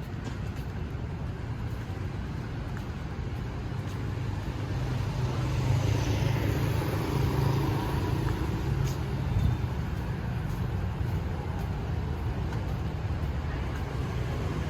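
Street traffic passing: a steady hum of engines and tyres, growing louder for a few seconds in the middle as a vehicle goes by close.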